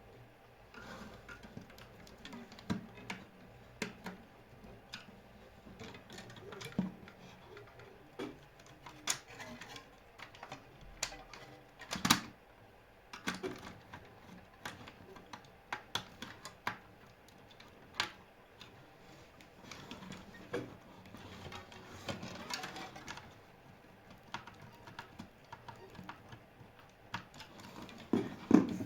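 Small tools and plastic parts being handled, giving irregular light clicks and knocks at uneven intervals, with one sharper knock about twelve seconds in.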